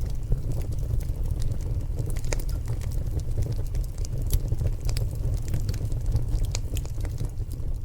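Log fire burning in a fireplace: a steady low rumble of flames with scattered sharp crackles and pops from the burning wood.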